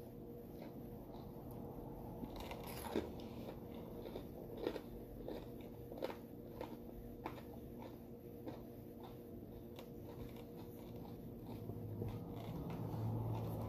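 A person chewing and biting into tater tots and a cheeseburger on soft potato bread: irregular small crunches and mouth clicks, a few sharper ones in the first half.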